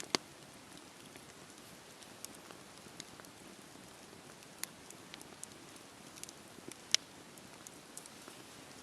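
Wood fire crackling: a low steady hiss with scattered sharp pops and snaps, the loudest just after the start and about seven seconds in.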